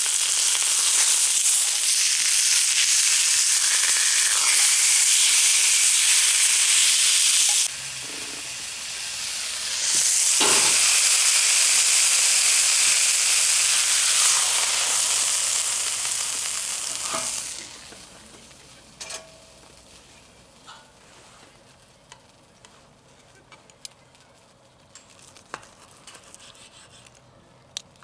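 Thick beef steak sizzling loudly on a hot iron griddle. The sizzle drops away briefly about a third of the way in, comes back, and stops about two-thirds through, leaving only a few faint clicks and knocks.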